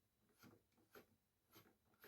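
Near silence, with three faint short ticks about half a second apart.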